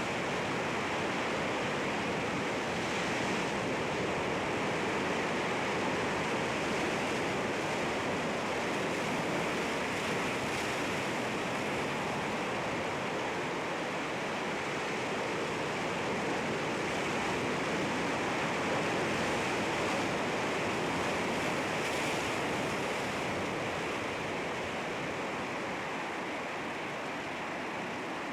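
Sea waves breaking against rocks: a continuous wash of surf, with a few brighter surges of spray.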